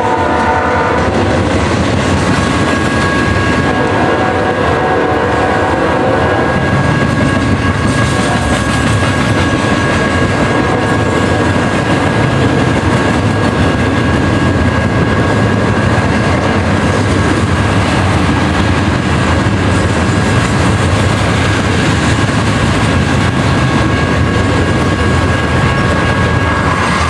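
Double-stack intermodal freight train rolling past at close range: a steady rumble and clatter of the cars' wheels on the rails. The tail of the locomotive's horn blast fades out in the first second or so, and a thin steady high tone runs over the rumble from about two seconds in.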